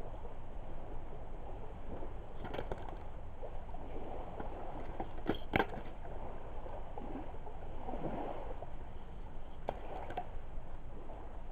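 Driftwood campfire burning, a steady low rush of flame with scattered sharp pops and cracks from the wood, the loudest two close together about five and a half seconds in.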